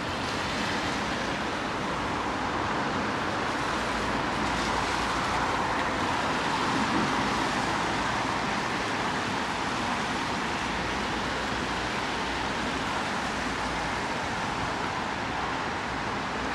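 Steady city street noise of traffic on a rainy day, an even hiss with a slight swell about seven seconds in.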